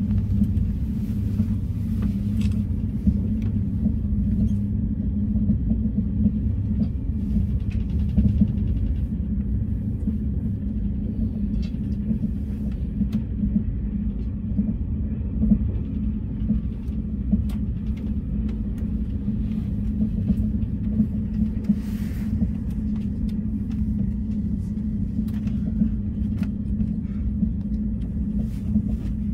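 Passenger train running at speed, heard from inside the carriage: a steady low rumble with a droning hum and faint scattered clicks.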